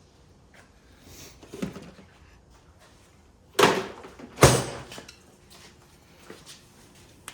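Two loud knocks a little under a second apart, with a few fainter knocks before them.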